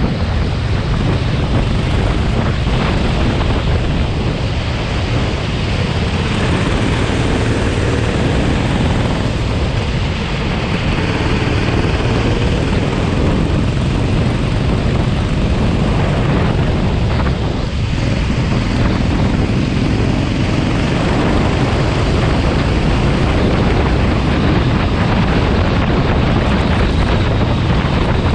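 Heavy wind noise on the microphone over a racing kart's engine, whose pitch rises and falls faintly underneath.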